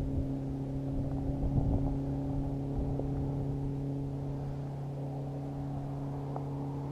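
A boat motor running steadily at one constant pitch, a low hum with overtones and a rumble underneath.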